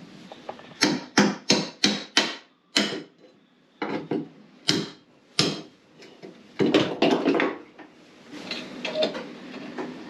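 Tool knocking on wood: a quick run of five sharp blows at about three a second, then several more spaced blows and a short cluster of knocks later on.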